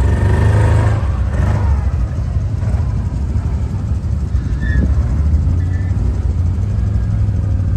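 Quad bike (ATV) engine running, a little higher in the first second and then steady.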